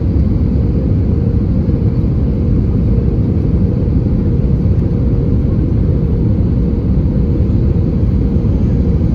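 Steady cabin rumble of an Airbus A320-214's CFM56 engines and airflow, heard inside the passenger cabin, with a faint steady hum over the deep roar and no change in power.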